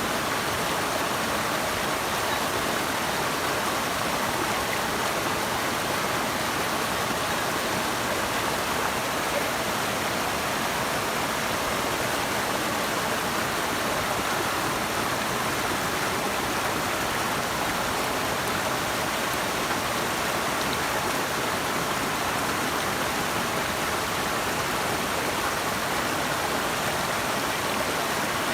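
Running water rushing steadily, an even wash of sound that never changes.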